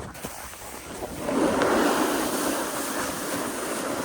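Snowboard sliding and scraping over snow, with wind on the microphone; the scraping grows louder about a second in.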